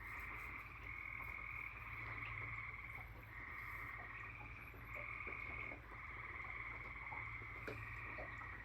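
A chorus of tree frogs trilling: overlapping trills about a second long each, some higher and some lower, following one another without a break.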